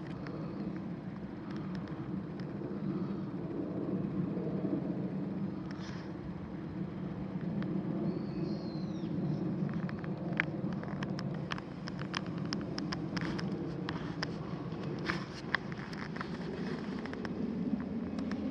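Steady low rumble of distant road traffic, with a run of sharp light clicks and crackles through the second half and a short high chirp about halfway through.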